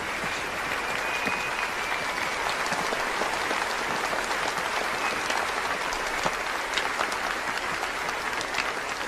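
A crowd applauding steadily: many hands clapping.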